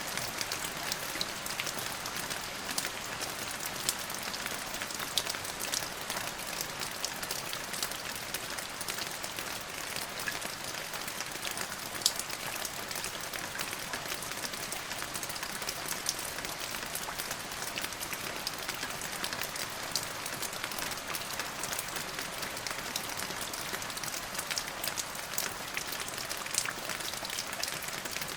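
Steady rain falling, with many sharp individual drop ticks over the hiss, one of them louder about twelve seconds in.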